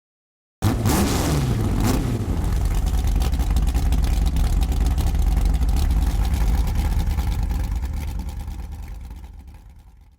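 A car engine revs, its pitch falling about a second in, then settles into a deep, steady rumble that slowly fades out over the last few seconds.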